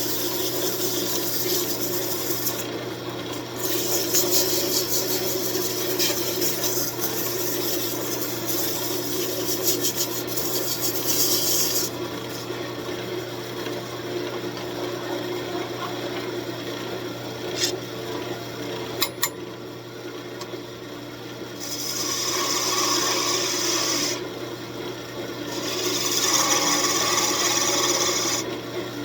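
Wood lathe running with a steady hum as a walnut ornament spins, while a tool or sandpaper scrapes against the wood with a hiss in several stretches that start and stop. A few sharp clicks come about two-thirds of the way through.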